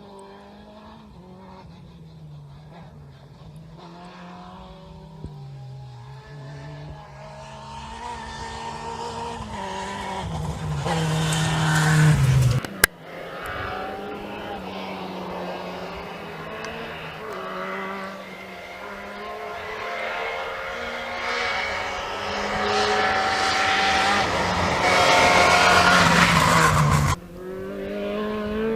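Rally car engines on a gravel special stage, approaching twice. Each engine note rises and falls through gear changes and grows louder as the car nears, with tyre noise on the loose surface, and each cuts off suddenly at its loudest.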